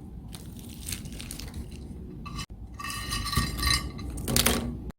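Clinking and light clatter of dishes and utensils over a low rumble, cut off briefly about halfway through, with the clinks louder in the second half.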